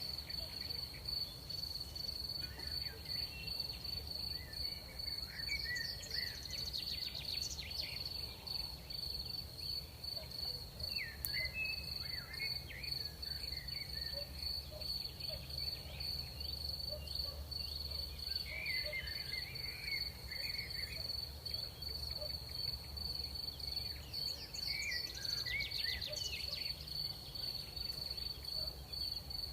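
Crickets trilling in one steady, unbroken high-pitched note, with short scattered chirping calls coming and going every few seconds over a low steady rumble.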